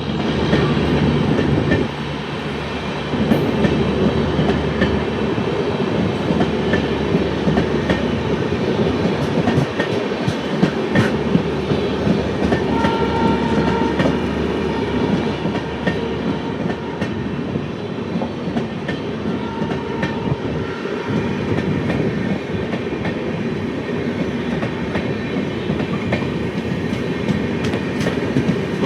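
Train running past at close range, its wheels clattering steadily over the rail joints.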